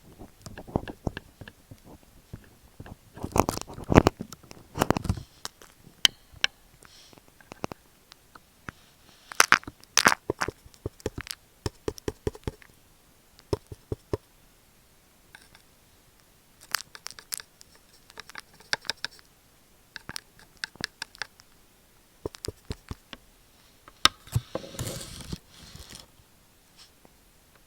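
Close-miked crunching and scraping against an earphone microphone, in irregular clusters of sharp clicks with short pauses between them, and a longer scratchy stretch near the end.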